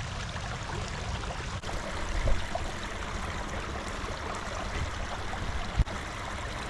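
Creek water running steadily, with a brief thump about two seconds in and a sharp knock near the end.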